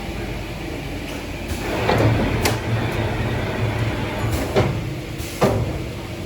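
Automatic wood bevel-cutting machine running: a steady motor hum with several sharp mechanical clacks, the loudest two near the end.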